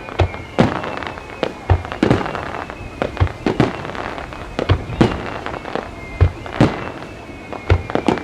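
Aerial fireworks display: shells booming in a steady series, in pairs about every second and a half, over continuous crackle.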